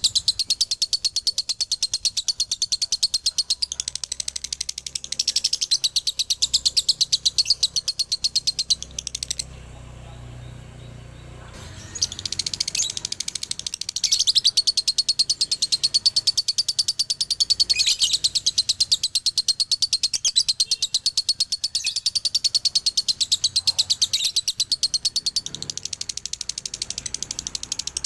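Male lovebird singing a long, rapid chattering trill (ngekek), many high chirps a second, broken by a pause of about two seconds near the middle.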